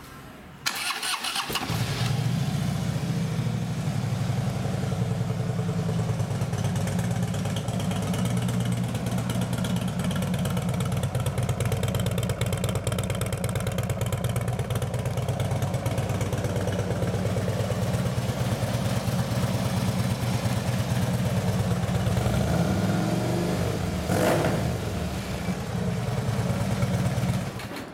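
2011 Harley-Davidson Road King Classic's 103-cubic-inch fuel-injected Twin Cam V-twin with slip-on exhaust. It is started with a short burst of cranking, then runs at a steady idle. The throttle is blipped once near the end, the pitch rising and falling.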